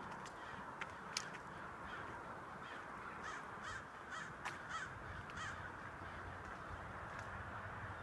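A bird calling: a run of about five short calls in quick succession, starting a few seconds in, over a steady background hiss, with a few sharp clicks.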